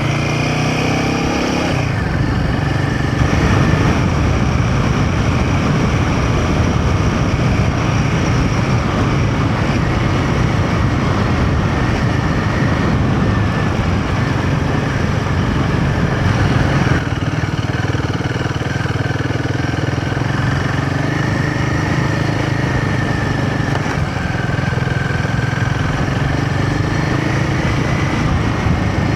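Royal Enfield Himalayan 450's single-cylinder engine running steadily under way, with a continuous rush of riding noise.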